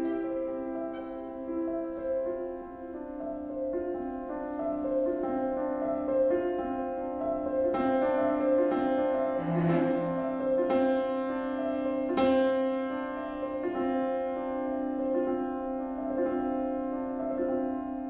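A piano, violin and cello trio playing contemporary classical chamber music: long held notes with separate piano notes struck over them every second or two.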